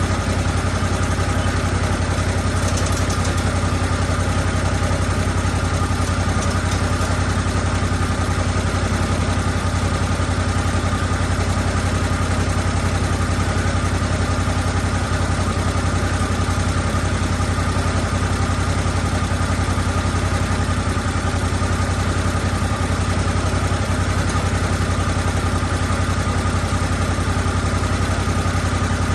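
Engine of a Lucas Mill 10-30 swing-blade sawmill running steadily at an even pitch, with no change in speed.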